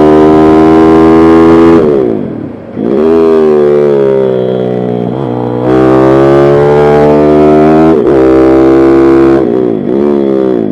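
Pitbike engine running hard at high revs; its pitch drops sharply about two seconds in as the throttle is shut, then climbs again with brief breaks like gear changes, and falls once more near the end.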